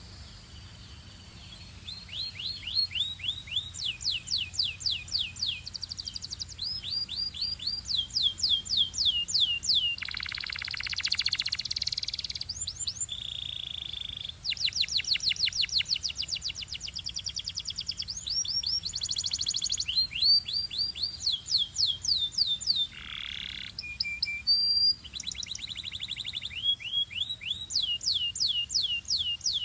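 Belgian canary singing a long, varied song made of runs of rapidly repeated sweeping notes, each run switching to a new note every second or two. There is a buzzy passage about ten seconds in and a short held steady note a few seconds later.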